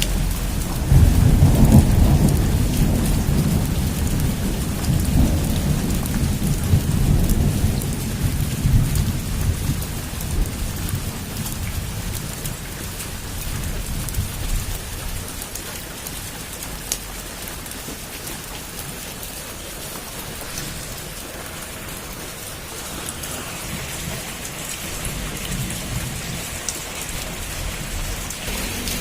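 Heavy rain falling steadily, with a long rumble of thunder that swells about a second in and slowly dies away, and a fainter rumble near the end.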